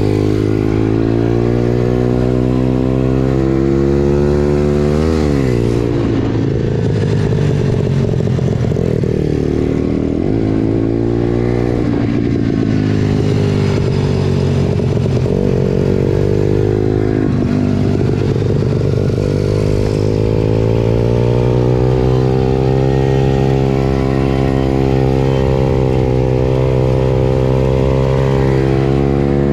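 Pit bike engine running under changing throttle, its pitch rising and falling over and over. There is a sharp rev up and back down about five seconds in, several dips and climbs through the middle, a long steady stretch in the second half, and another quick rise at the very end.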